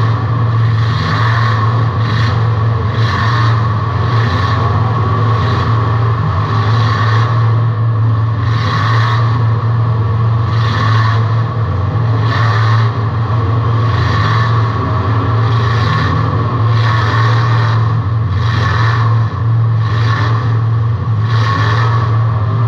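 A race car's engine running hard, heard from inside the car, with a steady low drone and a rushing noise that swells and fades about once a second.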